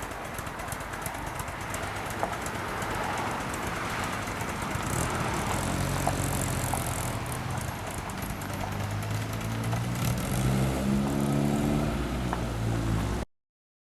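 A car engine running over steady outdoor background noise; about halfway through it becomes clear and steady, then rises in pitch briefly as it revs before the sound cuts off abruptly.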